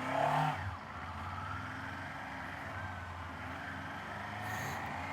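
Kawasaki Z500 parallel-twin motorcycle engine running steadily while riding, heard from the rider's mic with road noise, with a brief louder swell in the first second.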